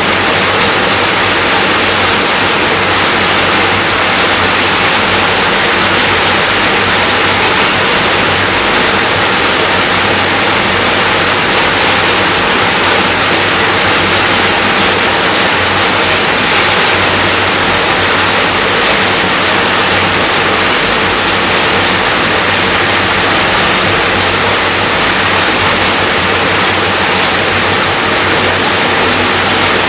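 Steady rainfall, a dense even hiss without pauses or individual drops standing out.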